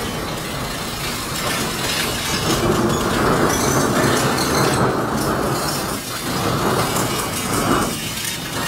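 Freight train's gondola cars rolling past, a steady noise of steel wheels on the rails that grows louder about two seconds in.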